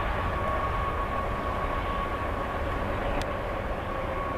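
Distant Union Pacific freight train of covered hopper cars rolling past, a steady low rumble with a thin, steady high-pitched whine held above it.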